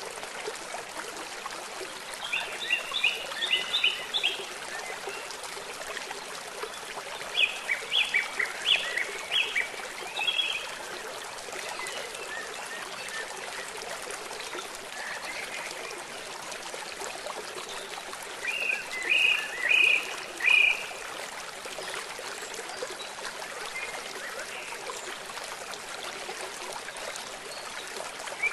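Steady rush of running water, with three short bursts of quick, high-pitched chirping: near the start, about eight seconds in, and about two-thirds of the way through.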